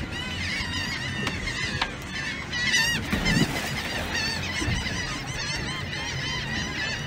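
A flock of birds calling over one another, many short, repeated calls.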